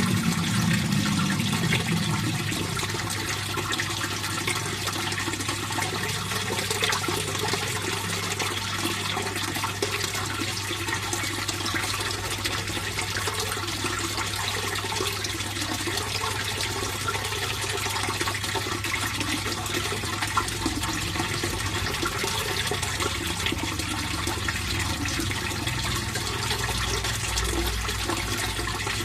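Water flowing and splashing steadily into a fish pond, an even rushing trickle with no let-up. A low steady hum runs underneath, and a low rumble fades out over the first couple of seconds.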